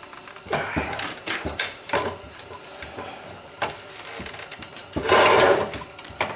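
Hand-handling of forge blower parts during reassembly: scattered clicks and knocks of small parts and screws, with a louder scraping rub about five seconds in.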